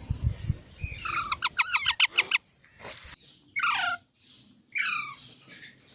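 Baby parrots calling: a rapid run of short, shrill chirps, about ten a second, then two separate screeches that slide down in pitch.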